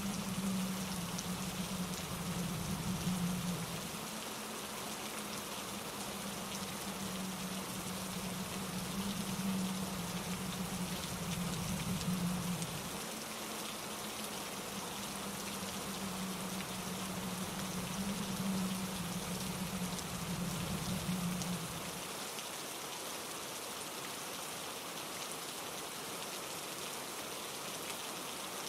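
Steady rain falling on leaves and rocks in an even hiss, under a low rumble that swells and fades several times and stops about three quarters of the way through.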